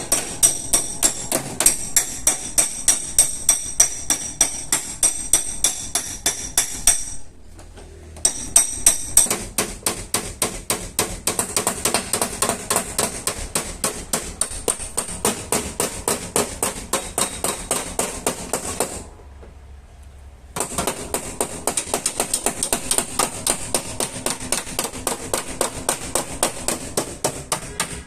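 Rapid, steady hammer taps on car body sheet metal, several strikes a second, with a high metallic ring over the first stretch. The tapping stops briefly twice.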